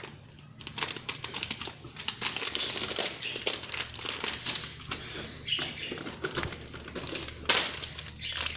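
Plastic packaging rustling and crinkling in quick, irregular bursts as it is handled and grabbed at, with a few louder crackles.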